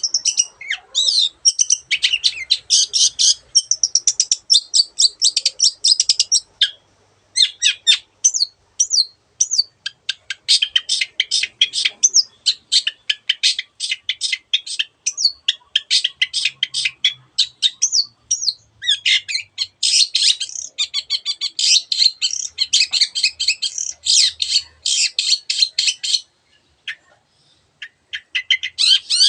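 Long-tailed shrike singing a fast chattering song of rapid high notes, with the calls of other birds it mimics mixed in. The song breaks off briefly about seven seconds in and again near the end.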